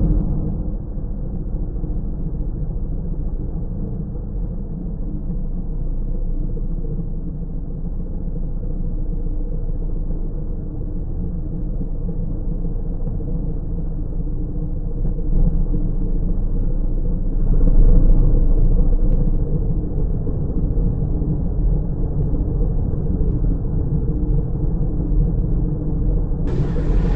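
Automatic car wash machinery running: a steady low rumble with a faint hum through it.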